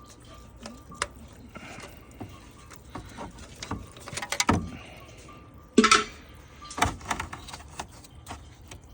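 Irregular clicks and knocks, loudest about four and a half and six seconds in, over a faint intermittent beeping tone.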